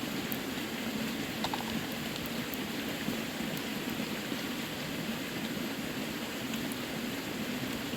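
A clear forest river running steadily close by, with a few faint clicks over the water.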